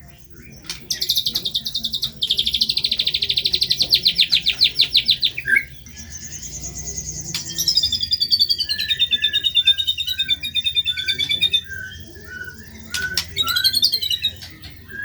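White-rumped shama (murai batu) singing: a long, rapid, high trill, then a warbling phrase that slowly falls in pitch, then short separate chirps near the end.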